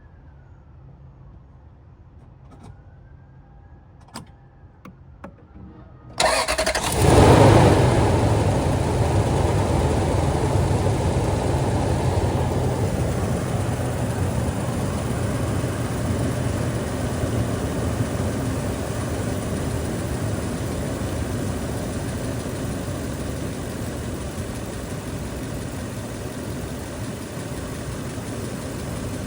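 A few faint clicks, then the 2006 Toyota Land Cruiser's 4.7-litre V8 cranks briefly about six seconds in and catches with a flare of revs. It settles into a cold-start fast idle that slowly drops and quietens.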